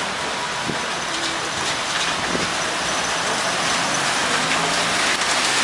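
Rain falling on a wet street: a steady, even hiss. Underneath it are car engines running and tyres on the wet road.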